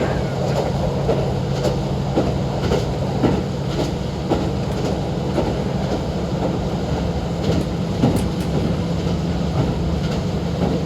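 Inside a JR Hokkaido KiHa 40 diesel railcar under way: the diesel engine drones steadily and the wheels click over rail joints about twice a second. The engine note shifts slightly about six seconds in.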